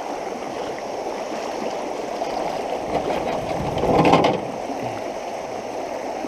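Fast-flowing floodwater in a creek rushing steadily. About four seconds in there is a brief, louder burst.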